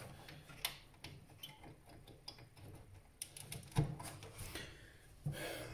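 Scattered light clicks and taps of computer parts being handled, with one sharper knock about two-thirds of the way through.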